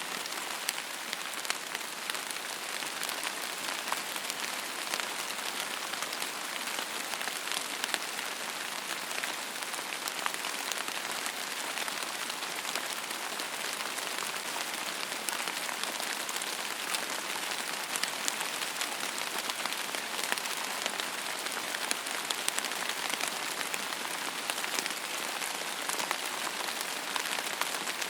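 Steady rain falling on a surface: an even hiss with many small, sharp drop impacts and no thunder.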